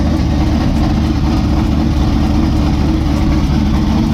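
Chevrolet Caprice PPV's cammed 6.0-litre V8 idling steadily and loud, its exhaust cut off on one side after the catalytic converter broke apart inside it.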